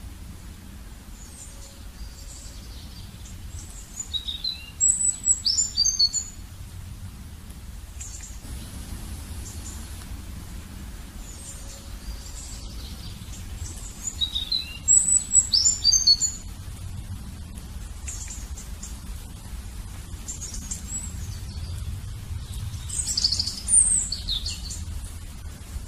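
Birdsong: bursts of high, quick chirping phrases three times, the same phrase seeming to come back about every ten seconds, over a steady low hum.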